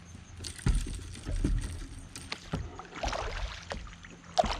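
Water sloshing and splashing around a kayak, with several irregular knocks on the hull.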